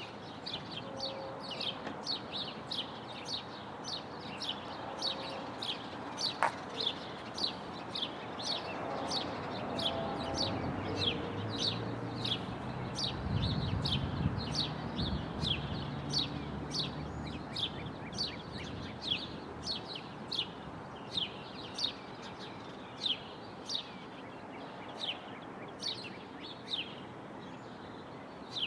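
A small bird chirping over and over, about two short, high chirps a second, over a faint steady outdoor hiss. A low rumble swells and fades around the middle.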